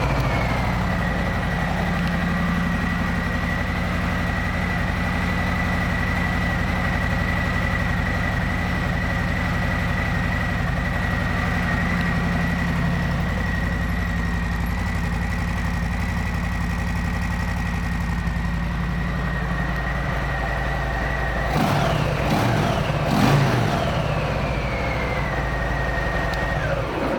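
Harley-Davidson Fat Boy's Milwaukee-Eight 114 V-twin idling steadily just after start-up, with a steady high whine along with the idle. The throttle is blipped twice near the end, and then the engine is shut off.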